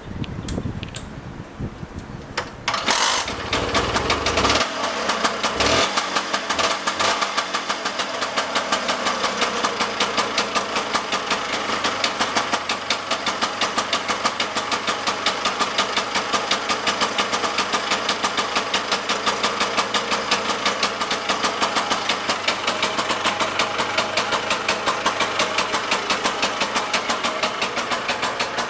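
The freshly rebuilt two-stroke single-cylinder engine of a 1960s Lambretta Silver Special scooter catches about three seconds in, revs briefly, then settles into a steady, fast, even idle.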